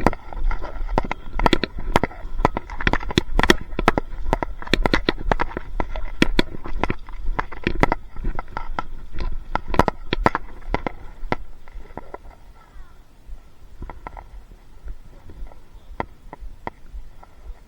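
A rapid, irregular run of sharp crackling clicks over a low rumble, dense for about the first twelve seconds, then sparser and quieter.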